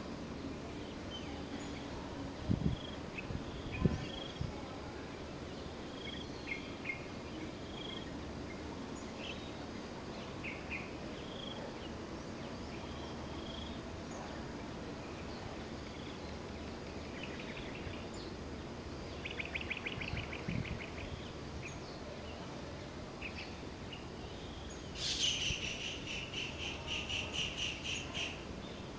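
Birds calling in trees: scattered short chirps throughout, a quick rattling trill about two-thirds through, and a louder run of rapid repeated notes near the end, over steady outdoor background noise. A couple of low thumps come in the first few seconds.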